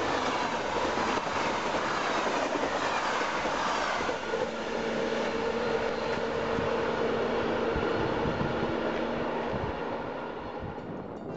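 Passenger train coaches rushing past on the track: wheels running over the rails, with a steady hum under the noise. The sound fades away near the end as the train moves off.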